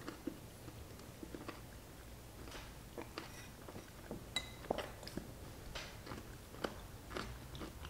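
Faint chewing of a dill pickle, with soft scattered crunches. About four seconds in, a metal fork clinks against the glass pickle jar with a brief ring as a spear is fished out.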